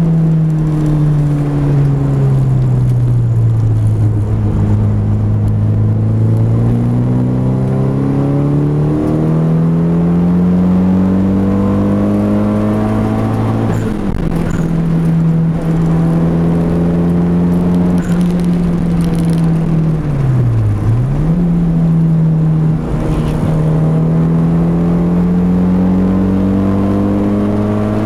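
Mitsubishi Eclipse GSX's turbocharged 2.0-litre inline-four heard from inside the cabin, driven hard: the engine note falls for several seconds as the car slows, jumps up about nine seconds in as it is shifted down, then climbs and holds high under power, with one quick dip and recovery about two-thirds of the way through.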